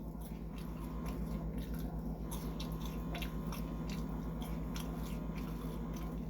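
A person chewing food close to the microphone, with frequent small irregular mouth clicks, over a steady low hum.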